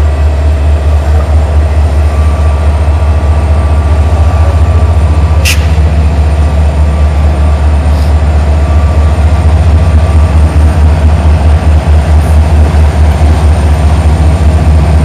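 Passenger train approaching the station, heard as a steady, loud low rumble, with one brief sharp metallic sound about five and a half seconds in.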